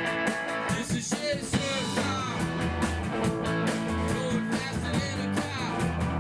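Rock music: electric guitar over bass and drums, played at a steady loud level.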